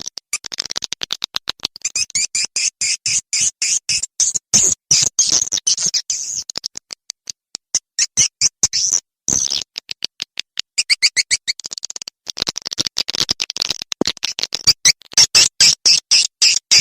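Swiftlet lure call recording: rapid runs of dry clicks mixed with high, repeating twittering chirps.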